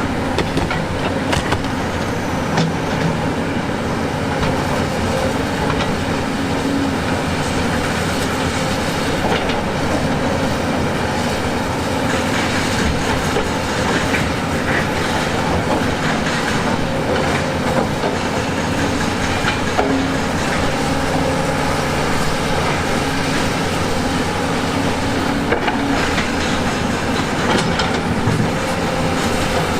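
Heavy diesel construction machinery running continuously, the engine note shifting in pitch as it works, with frequent metallic clanks and knocks.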